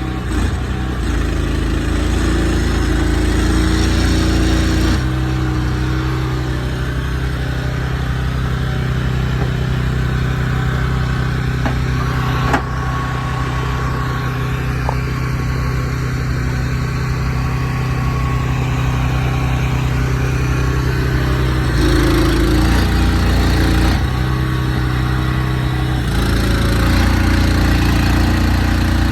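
A truck engine running steadily, its speed stepping up and down several times. There is a single sharp knock about halfway through.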